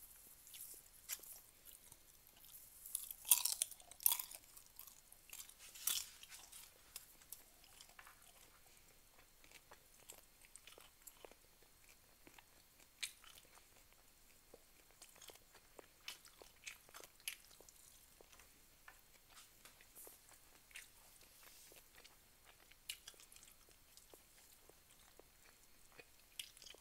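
A person chewing and biting food, with a louder cluster of bites around three to four seconds in and another near six seconds, then fainter, scattered chewing clicks.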